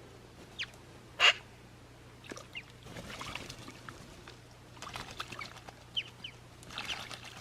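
Crows and magpies calling: one loud short call about a second in, with fainter short calls and clicks scattered around it.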